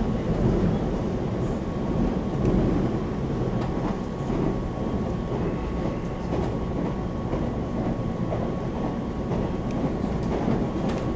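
Running noise inside a Taiwan Railway EMU700 electric commuter train car at speed: a steady rumble of wheels on rail, with a thin constant whine and a few faint clicks.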